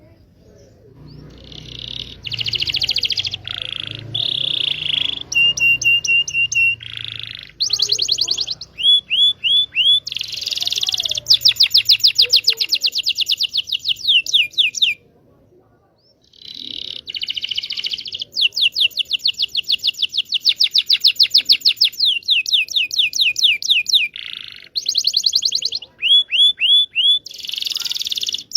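Canary (Indonesian local canary) singing a long song of fast trills and rapidly repeated chirping notes, with a break of about two seconds midway.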